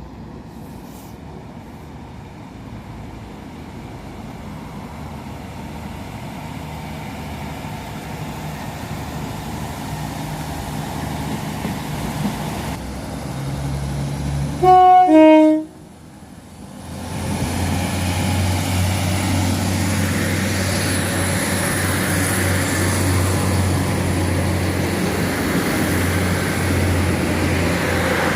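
NIR 3000-class diesel multiple unit approaching, growing steadily louder, then giving a short, very loud two-tone horn blast, a higher note then a lower one, about halfway. It then runs loudly past or into the platform with a steady low engine hum.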